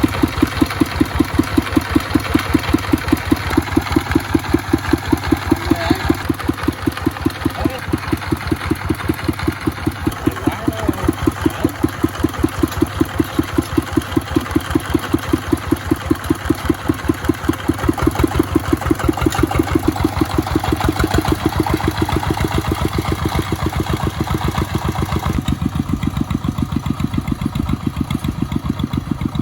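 Small engine running with an even, slow chugging beat. About 25 seconds in, the upper part of the sound fades.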